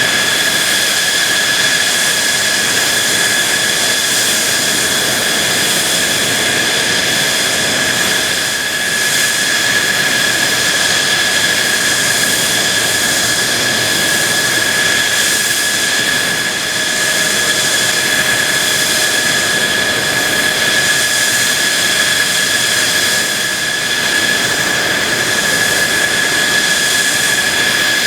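Mitsubishi F-2B fighter's jet engine running at a steady setting: a rushing hiss with a steady high whine.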